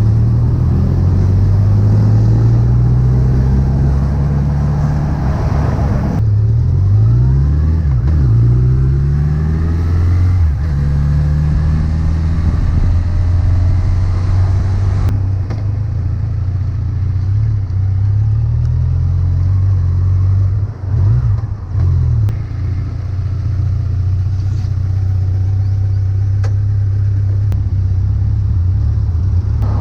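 Honda CB1100EX's air-cooled inline-four engine running while being ridden, its pitch sweeping up and down several times as the revs change, with a short dip in loudness about twenty-one seconds in.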